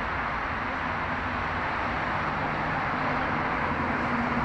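Steady hiss of falling rain, with a faint low steady hum coming in partway through.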